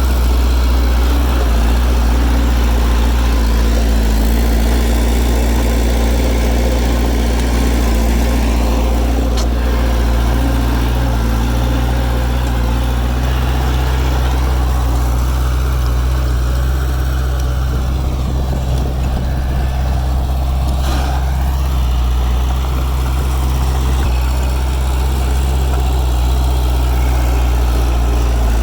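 Heavy diesel engine of earthmoving machinery running at a steady speed, a deep, even sound with no clear revving.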